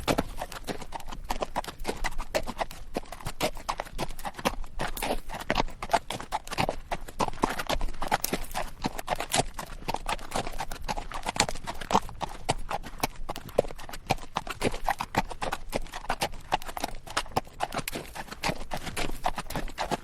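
Horse's hooves clip-clopping at a steady pace on rocky dirt, with the bridle rattling and the saddle creaking.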